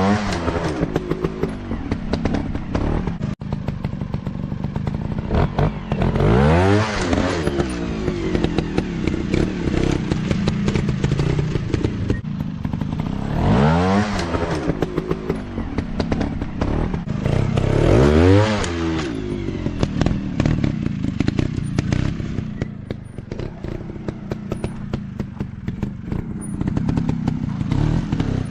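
Dirt bike engine revving in sharp bursts, pitch climbing and dropping about four times, with steadier running and clattering in between.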